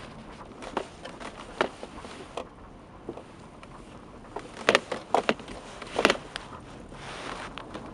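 A series of sharp knocks and clicks over a steady background rush. The loudest come in a quick cluster a little past the middle.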